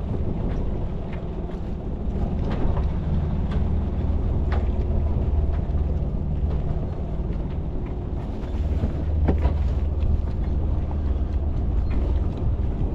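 A sailboat's engine running steadily at low speed while the boat is brought slowly alongside a marina pontoon. There is wind noise on the microphone and a few short knocks.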